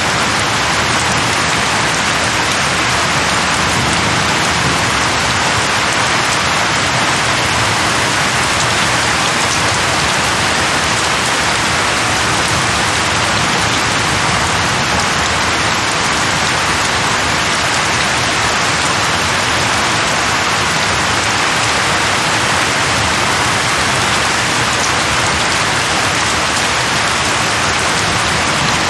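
Steady heavy rain falling, a dense even hiss with no breaks or distinct drops.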